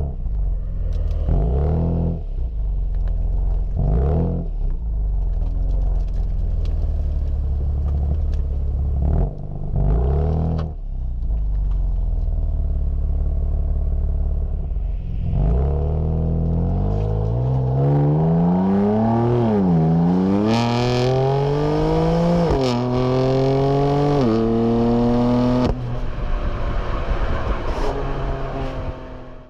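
Car engine and loud exhaust: a rumbling idle broken by several short throttle blips, then a hard acceleration about halfway through, rising in pitch through a few gear changes before falling back as the throttle eases off. The sound cuts off abruptly at the end.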